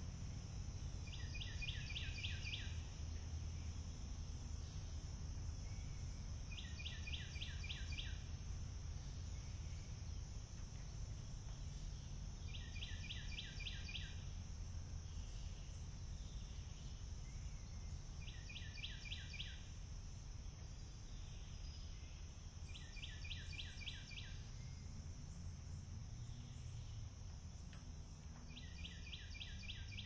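A songbird repeating a short, rapid trill of evenly spaced notes, six times, about every five to six seconds, over a steady high hiss and a low outdoor rumble.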